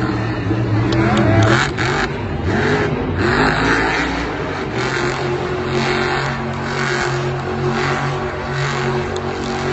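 Monster truck's supercharged V8 engine revving hard. Its pitch swings up and down over the first few seconds, then holds at a steadier high drone.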